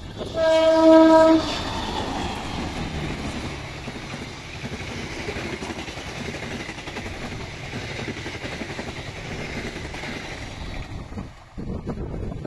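Diesel locomotive horn sounds one loud steady blast of about a second. A passenger train then runs past close by, its wheels rumbling and clattering on the rails, fading as the last coach goes away.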